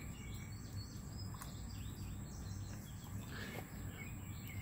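Outdoor background of small birds chirping again and again, over a steady high thin whine and a low rumble.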